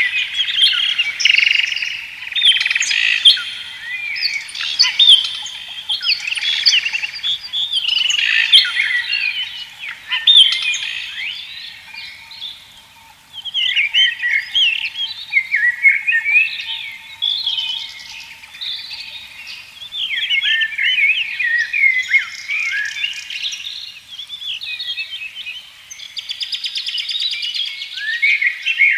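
A chorus of many birds singing and calling at once, a dense overlap of quick chirps and whistles, with a brief lull about twelve seconds in.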